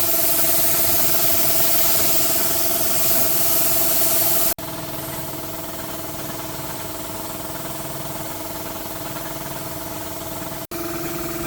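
A steady motor hum with a loud hiss over it for the first four and a half seconds, like air or liquid spraying. The sound drops out abruptly about four and a half seconds in and again near the end, and it continues quieter without the hiss in between.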